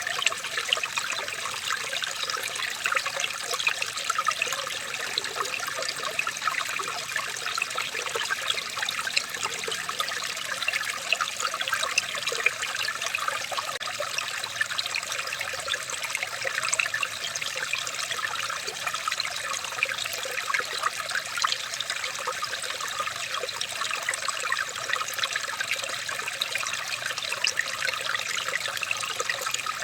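Running water trickling and babbling steadily, like a small stream, a dense patter of tiny splashes over an even rush.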